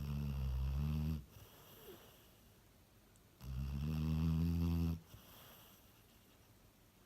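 Cocker spaniel snoring in its sleep with a deep, human-like snore: two loud, low snores, each lasting about a second and a half, roughly three seconds apart.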